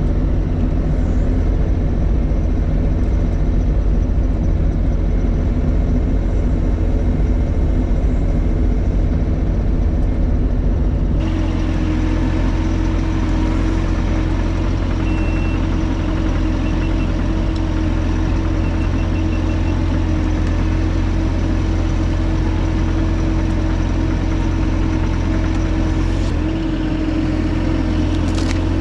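Bobcat E42 mini excavator's diesel engine running steadily while the machine works at lifting a heavy wet stump. The engine sound changes abruptly about eleven seconds in, then carries on steadily.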